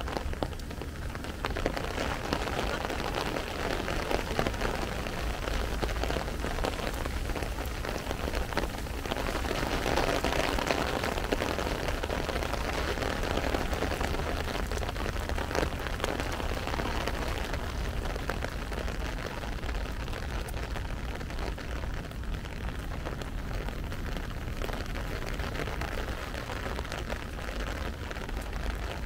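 Steady rain falling, a dense patter of individual drops over a continuous hiss, with a constant low rumble underneath; it swells slightly in the middle.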